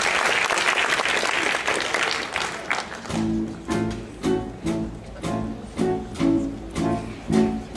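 Audience applause fading out. About three seconds in, an instrumental introduction starts, with short accented chords coming roughly twice a second.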